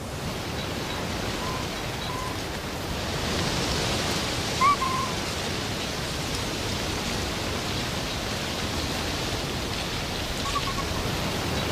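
Steady wind rushing through the forest, with a few brief high calls over it, the loudest about five seconds in.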